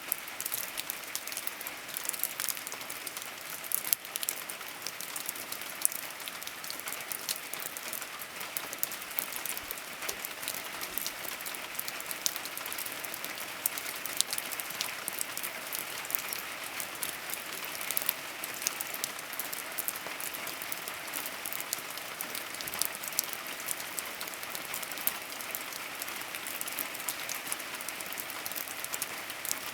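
Steady rain falling on a surface: a dense patter of drops with many sharp individual drop ticks.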